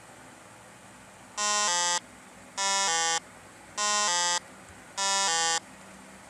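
Electronic two-tone buzz sounding four times, about once every 1.2 seconds; each buzz lasts about half a second and steps from one pitch to a slightly lower one partway through.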